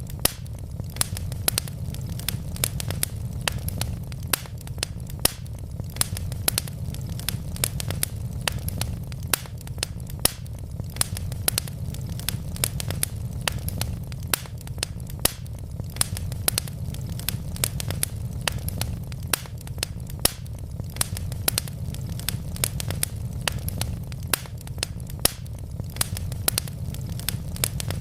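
Wood fire crackling steadily: many sharp pops and snaps, several a second, over a low steady rumble of burning logs.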